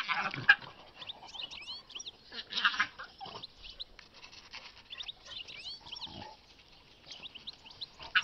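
Small birds chirping, short rising calls scattered throughout, under a couple of short rough bursts close by, near the start and about two and a half seconds in.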